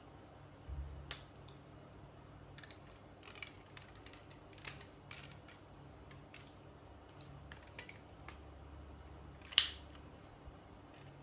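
Scattered light clicks and taps from a smartphone and its small parts being handled. A sharper click comes about a second in, and the loudest click comes near the end, with dull handling bumps before each.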